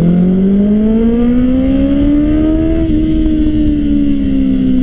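Motorcycle engine heard from the rider's seat, revs climbing steadily for about three seconds, then dipping and slowly falling as the throttle eases off.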